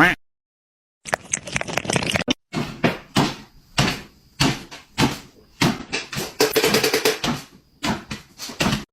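A run of sharp knocks and thumps, about two a second, after a brief silence.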